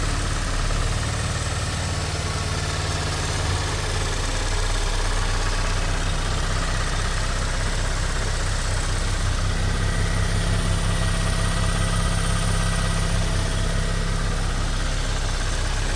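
Land Rover Discovery Sport's newly fitted engine idling steadily just after starting.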